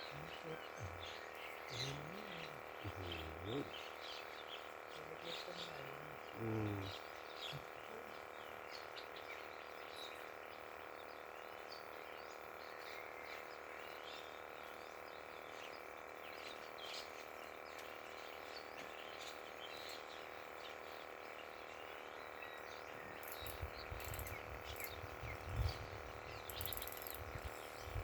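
Birds chirping in short calls over a steady hum made of several tones. Faint distant voices come in early on, and low rustling and handling knocks begin near the end.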